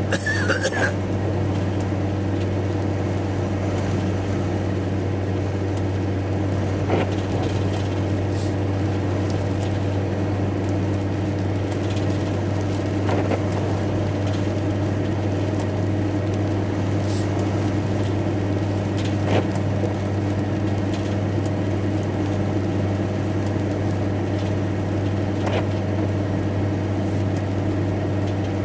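Van engine idling steadily, heard from inside the cab, with a constant low hum and an even pitch. A faint short sound comes about every six seconds.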